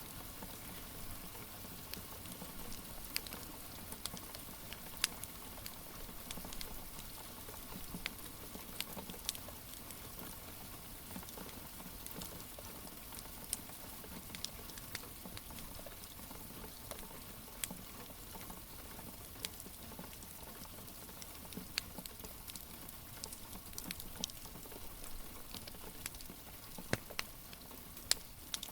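Steady soft rain hiss with a wood fire crackling over it: irregular sharp pops and snaps, several every few seconds.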